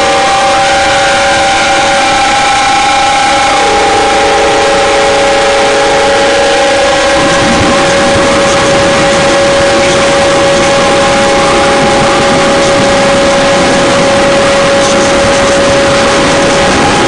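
Harsh noise drone music: a loud, unbroken wall of noise with two long held tones under it. A few shorter held tones come and go in the first seven seconds.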